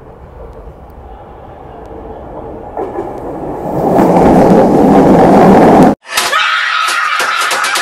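An electric commuter train running into a station platform, its rumble growing steadily louder for about six seconds. It cuts off suddenly and a person's loud scream takes over.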